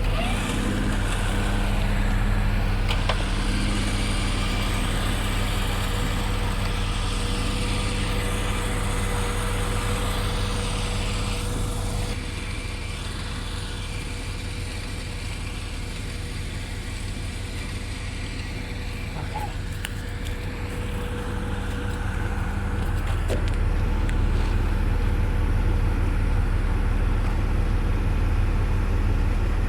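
Vehicle engine running steadily at idle, a continuous low hum that drops somewhat about twelve seconds in and rises again a little after twenty seconds.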